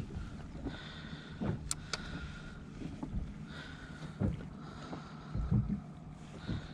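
Fishing kayak on the water, with water knocking against the plastic hull in soft low thumps about every second and a half over a steady low rumble.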